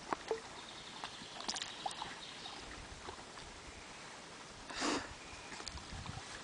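A dog sniffing, with one louder short snort about five seconds in, over faint outdoor background and a few small clicks.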